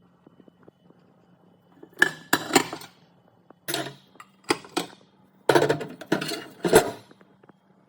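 Hard kitchenware clattering and clinking as it is handled, in several short bursts, over a faint low steady hum.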